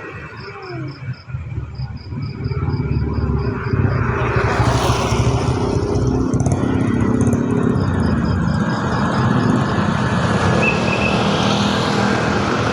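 Road traffic through an intersection: motorcycle and car engines running steadily, with one vehicle passing close about four to five seconds in.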